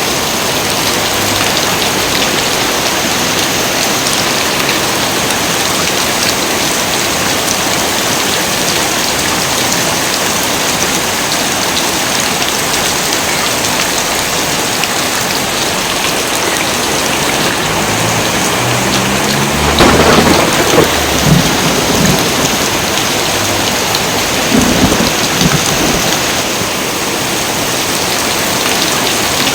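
Heavy rain pouring steadily. Thunder rumbles in about two-thirds of the way through, with a second louder peak a few seconds later.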